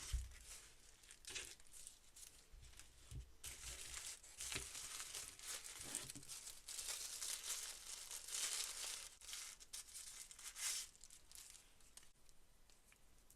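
Packaging being torn open and crinkled by hand in irregular rustling bursts that die down about eleven seconds in.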